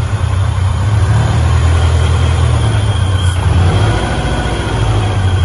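Honda Integra with a B20 engine being driven, its engine running with a steady low drone and road noise.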